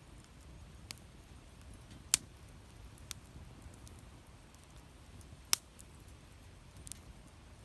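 Campfire of burning wood crackling, with scattered sharp pops from the wood; two louder pops stand out, about two and five and a half seconds in.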